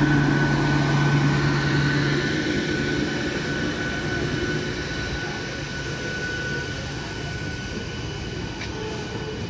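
Eastern Railway electric multiple unit (EMU) local train rolling past along the track: a steady rumble of wheels on rails with a constant high whine. A low hum fades out about two and a half seconds in, and the sound grows gradually quieter.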